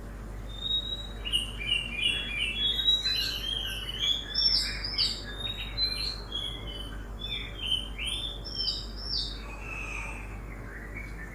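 Several small birds chirping and singing in a dawn chorus: quick, overlapping high chirps and short trills, busiest in the middle and thinning toward the end. A steady low rumble of city noise runs underneath.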